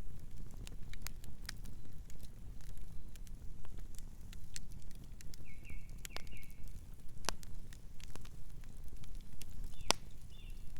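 Campfire crackling: irregular sharp pops and snaps over a low steady rumble, with a loud snap about ten seconds in. A few short high chirps sound about five to six seconds in.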